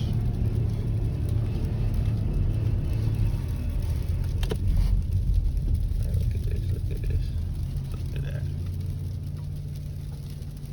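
Low steady rumble of a car moving or idling in traffic, with a single sharp click about four and a half seconds in; the rumble eases slightly near the end.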